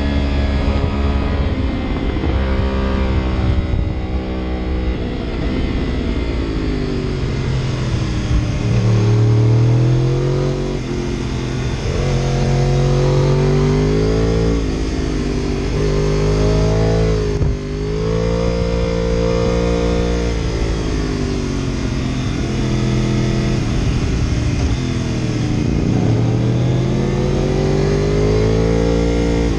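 Engine revving up and falling back again and again as the vehicle accelerates and slows through the bends of a winding road, with one brief sharp drop in revs a little past halfway.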